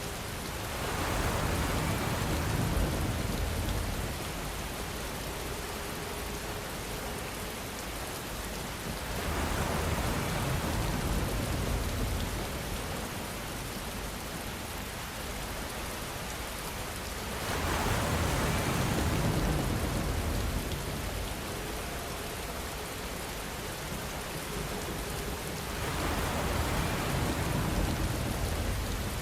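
Steady rainfall, a dense even hiss that swells louder for a few seconds about every eight seconds, four times, with a deeper rush in each swell.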